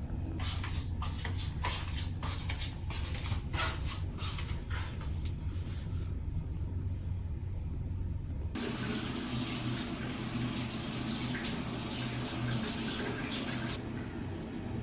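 River water flowing and splashing, with a steady low hum under it. About eight and a half seconds in, it switches abruptly to a louder, even rush of water that drops off near the end.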